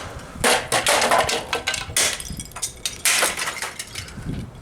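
Hammer blows smashing a speaker: a string of sharp impacts with cracking and clattering, about six strikes, the heaviest near the start and about three seconds in.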